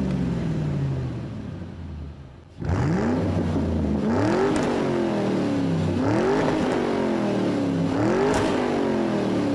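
A car engine revving: after an engine note that falls and fades in the first two seconds, the pitch climbs quickly and sinks back more slowly, four times over.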